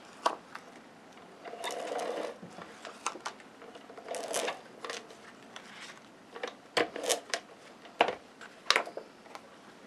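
Photo prints and cardstock being handled and pressed down for gluing onto photo mats: short spells of paper rustling and sliding, with several sharp clicks and taps, most of them near the end.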